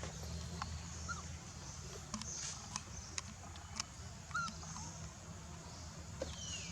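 Baby macaque giving a few short, high squeaking calls, with a falling whistle-like call near the end, over a low steady rumble and scattered clicks.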